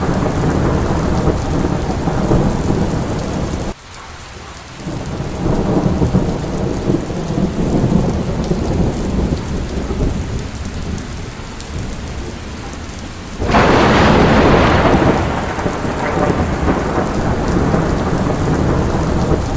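Steady rain in a thunderstorm, with a low rolling rumble of thunder underneath. The sound drops abruptly a little under four seconds in and builds back, and about 13 seconds in a loud crack of thunder breaks out and dies away over a couple of seconds.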